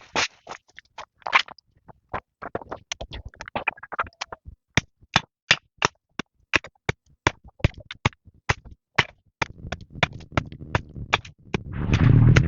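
A series of sharp taps and clicks, irregular at about two to four a second. Just before the end comes a louder, longer rustling burst.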